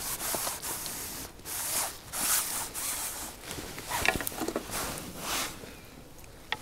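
Intermittent rustling and rubbing close by, in uneven bursts, with a few small clicks about four seconds in.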